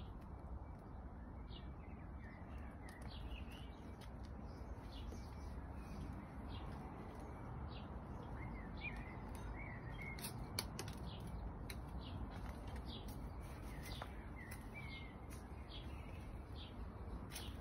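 Wild birds chirping and singing in short, high notes scattered throughout, with a few little warbling phrases in the middle, over a steady low background rumble.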